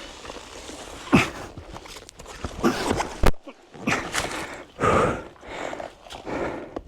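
A person panting and grunting hard with physical effort, in irregular heavy breaths about once a second, with scuffing and a sharp knock a little past three seconds in.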